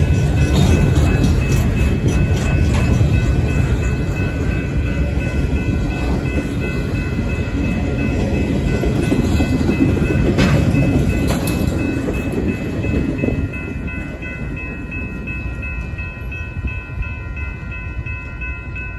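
Union Pacific maintenance-of-way weed sprayer train rolling past, its cars rumbling with clacks and knocks from the wheels on the rails. The rumble drops off sharply about two-thirds of the way through as the last car passes and the train moves away. Steady high ringing tones run underneath the whole time.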